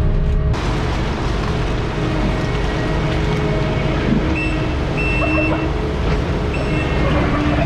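Farm machinery engine running steadily, with several short high-pitched beeps from about the middle on, like a warning beeper.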